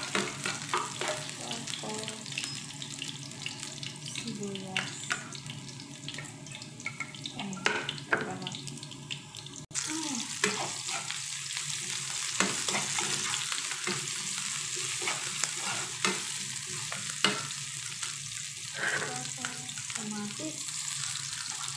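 Minced garlic and sliced red onion sizzling in hot oil in a nonstick frying pan, with a metal spoon scraping and tapping against the pan as they are stirred. The sizzle gets louder about ten seconds in.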